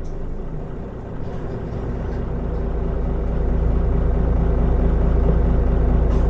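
Mitsubishi Fuso Aerostar city bus's diesel engine pulling away and accelerating: the low rumble grows louder over the first few seconds, then holds steady.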